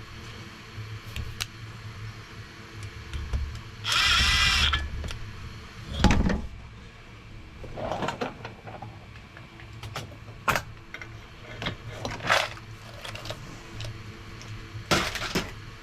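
Cordless drill-driver whirring briefly about four seconds in and again near the end, driving screws during reassembly of a diesel heater. Between the whirs come scattered clicks and knocks of parts being handled.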